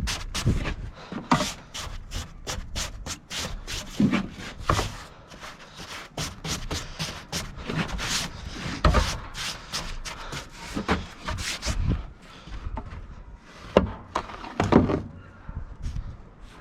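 Irregular rubbing and scraping with scattered knocks and crunches, as of someone moving about and handling things in snow.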